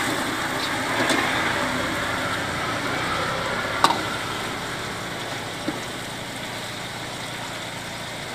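Chicken masala sizzling in an iron wok as a metal ladle stirs and scrapes it, over a steady hiss; one sharp knock of the ladle on the wok about four seconds in and a lighter one a couple of seconds later.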